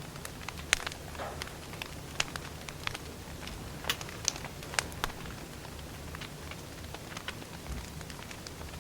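Wood fire burning, with irregular sharp crackles and pops of the logs over a low steady rumble of flame.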